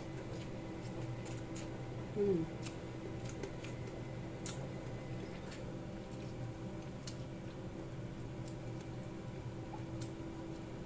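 Eating sounds: soft clicks of chewing and lip smacking as rice and fried dried fish are eaten by hand, over a steady low hum. About two seconds in, a brief falling vocal hum.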